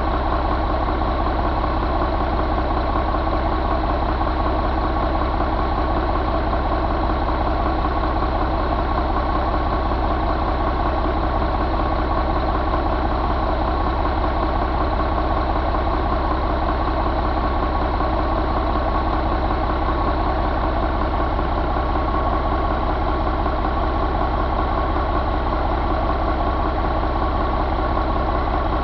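1989 Ford 6.6 engine running at a steady idle, with no change in speed or loudness.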